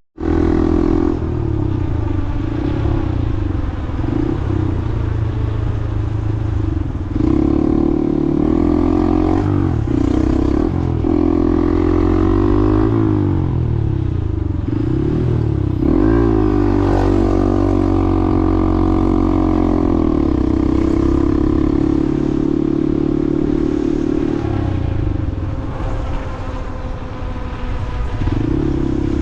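Motorcycle engine riding through city traffic. Its pitch climbs as it accelerates and drops back at each gear change several times, with a stretch of steady cruising in the middle.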